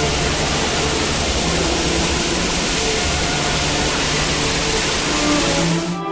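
Loud, steady rushing noise, with faint steady tones beneath it; it cuts off abruptly at the very end.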